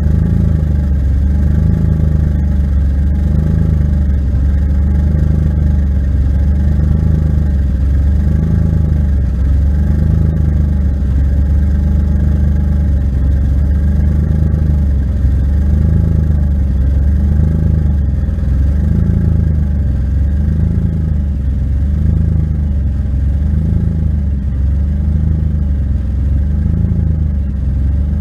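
BMW 535i E34's 3.4-litre straight-six running steadily at low revs through a straight-through exhaust, with a deep even tone that swells and fades in a slow regular rhythm about once every second and a bit.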